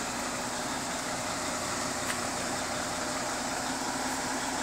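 Mack log truck's diesel engine running steadily at idle, with the steady hiss of rain.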